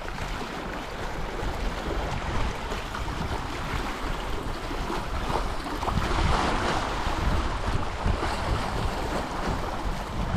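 Wind buffeting the microphone over the wash of sea waves: a steady hiss with a gusty low rumble that swells a little about six seconds in.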